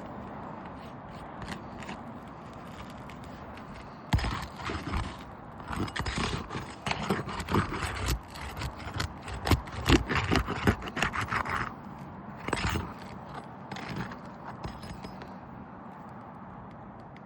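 Irregular scraping and knocking, dense from about four seconds in to about twelve, then a few more strokes, over a steady background hiss: gritty contact and handling on roofing.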